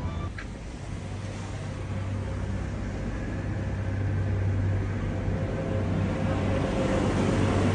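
Steady low mechanical hum and rumble of a moving vehicle, growing gradually louder, with a single click just after the start.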